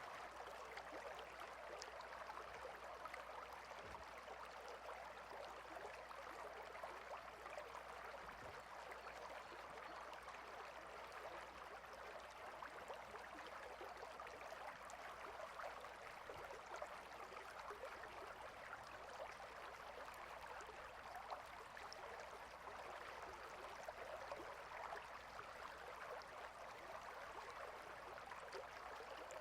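Stream water flowing, a faint, steady babble with small splashes.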